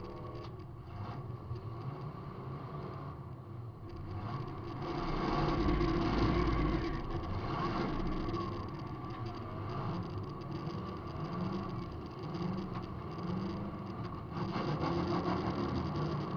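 Demolition derby car's engine running under load, heard from inside the car, its pitch repeatedly rising and falling as it is revved; loudest about five to seven seconds in.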